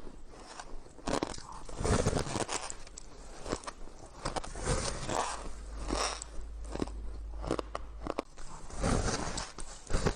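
White shaved ice being bitten and chewed close to the microphone: rough, crisp crunches coming in clusters a few seconds apart.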